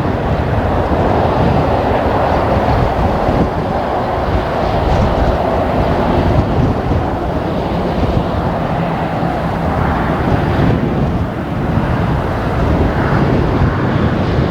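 Steady jet engine noise from a landing Boeing 777, with strong wind rumbling on the microphone.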